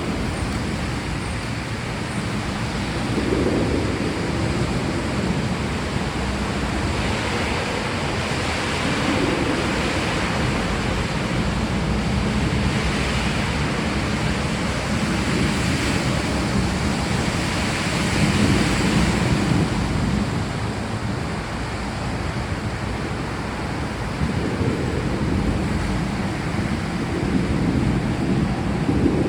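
Steady heavy rain with low rumbles of distant thunder that swell and fade several times.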